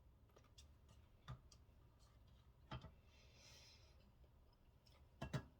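Near silence, room tone, broken by a few faint clicks and knocks: one about a second in, one near the middle, and a quick cluster near the end, with a brief soft hiss between them.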